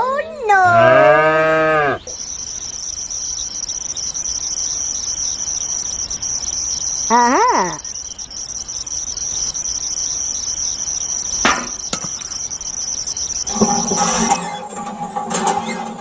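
Cow mooing sound effects, a long moo at the start and a shorter one about halfway through, over a steady high cricket chirring. Near the end a steady pitched hum comes in.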